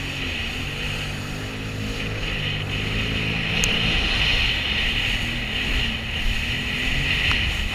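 Sea-Doo jet ski engine running under way, its pitch dipping and rising a few times with the throttle.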